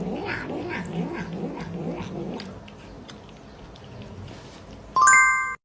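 A cat yowling, long wavering caterwauls that fade after a few seconds. Near the end a loud electronic chime sound effect cuts in briefly, then the sound drops out abruptly.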